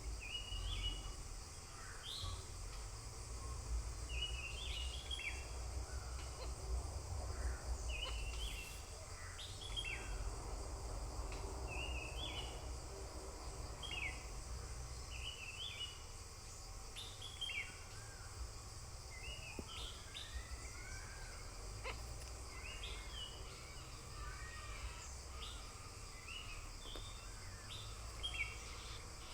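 Small birds chirping: short, high calls repeating every second or two, over a steady high hiss and a low rumble.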